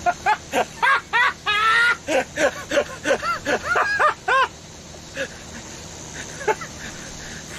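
People laughing hard in quick high-pitched, honking bursts, which die down after about four and a half seconds to a couple of last chuckles.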